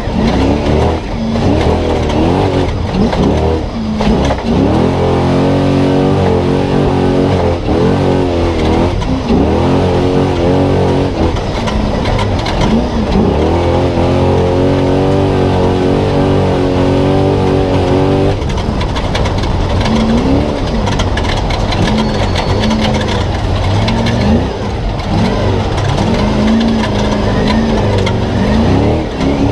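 Spec Trophy Truck's V8 engine at race pace, heard onboard. The revs repeatedly climb and drop with the throttle. They hold steady and high for several seconds in the middle, then fall off sharply about eighteen seconds in.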